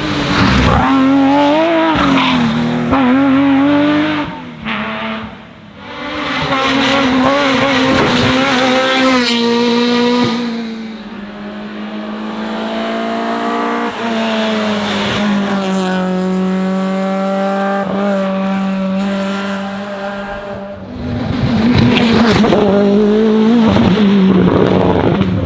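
Race car engine revving hard through gear changes, its pitch climbing and dropping again and again. Partway through it settles to a steadier, quieter note, then comes back loud near the end.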